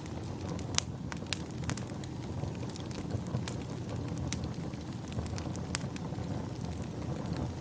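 Wood fire crackling in a fireplace: irregular sharp pops and snaps over a steady low rumble, the loudest pops about a second in.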